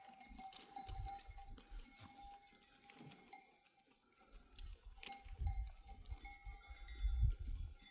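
Bells on a flock of sheep clinking and ringing as the animals move, with a few low rumbles.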